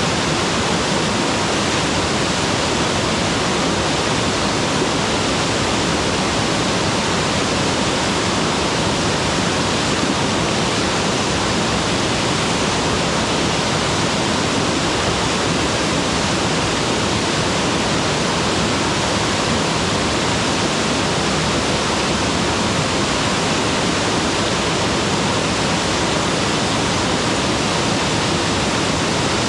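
Mountain waterfall: a loud, steady, unbroken rush of falling water.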